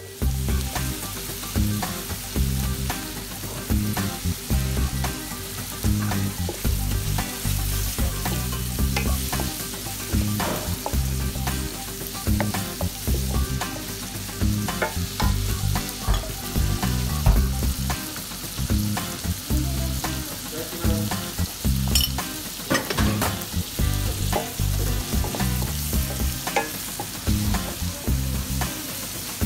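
Onions and green chilies sizzling as they fry in a stainless steel pan. A wooden spatula stirs them, scraping and knocking against the pan at irregular moments.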